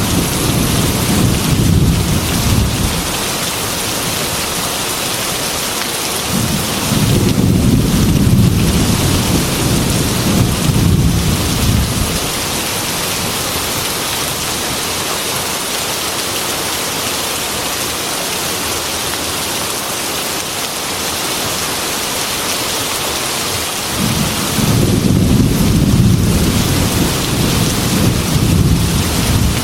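Heavy rain beating steadily on a glass window, with rolling thunder rumbling three times: one rumble dying away about three seconds in, another of about five seconds around a third of the way through, and a third beginning near the end.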